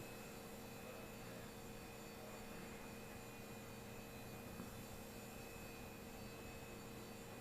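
Faint steady hum with a few fixed tones over soft hiss: background room tone with no distinct event.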